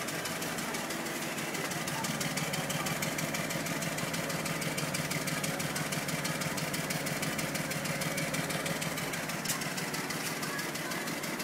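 Car engine idling with rapid, even ticking while misfiring on cylinders 1, 3 and 4. A single sharper click comes about nine and a half seconds in.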